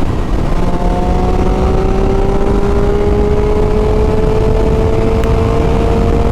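Triumph Street Triple 675's three-cylinder engine pulling hard in one gear, its pitch climbing slowly and steadily for several seconds, over a heavy rumble of wind on the microphone.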